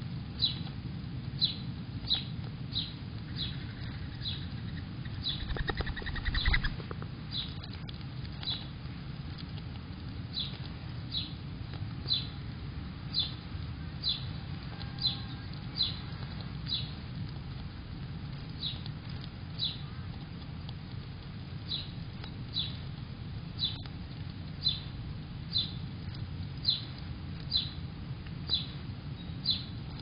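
A bird calling outside, repeating a short high chip note one to two times a second with a few pauses, over a steady low rumble. About five seconds in, a brief fluttering clatter.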